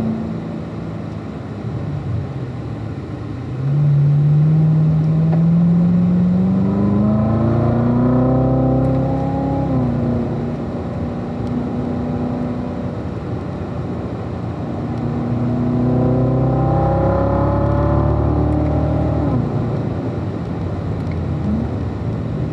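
Car engine heard from inside the cabin on a track lap. It gets louder about three and a half seconds in and climbs in pitch as the car accelerates, drops at an upshift about ten seconds in, then climbs again and falls away near the end.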